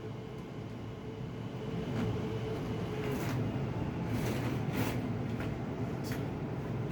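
Steady low mechanical hum with a few light clicks and rustles, as of a furnace filter being handled.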